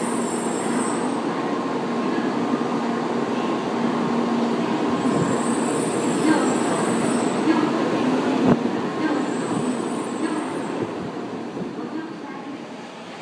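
Shinkansen bullet train pulling out along a station platform: a steady running hum with a few sharp clicks around the middle, fading over the last couple of seconds as the cars move past.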